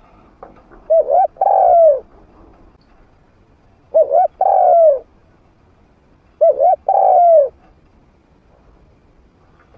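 Spotted dove cooing: three calls about three seconds apart, each two quick short notes followed by a longer falling coo. It is the call of a trained decoy dove, used to draw wild spotted doves in.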